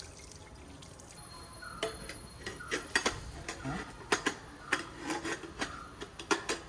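Irregular metallic clicks and taps of hand tools working on a motorcycle exhaust's clamp and pipe while it is being fitted, starting about two seconds in, some with a brief ring.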